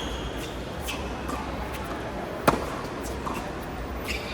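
A tennis ball knocks sharply once, about two and a half seconds in, struck by a racket or bouncing on the court, with a few fainter knocks around it over a low hum and distant voices.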